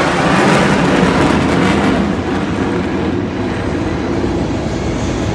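Jet roar of six F-15SG Eagle twin-engine fighters in a flypast. It is loudest at the start, then the high hiss dies away after about two seconds, leaving a lower rumble as they move off.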